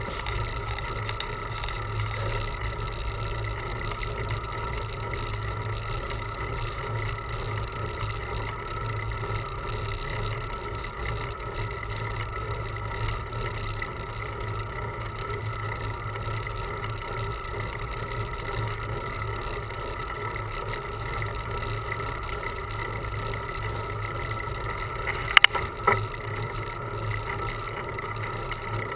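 Steady riding noise of a bicycle on the road: a continuous low rumble with a steady hum, and two sharp clicks close together near the end.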